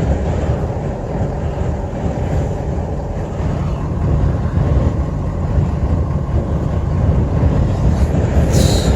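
Strong sandstorm wind blowing hard against a vehicle: a steady, loud, low rumble with a short high hiss near the end.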